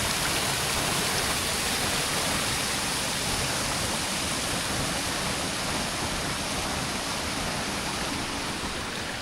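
Strong wind of a snowstorm blowing steadily, an even rushing noise that eases a little near the end.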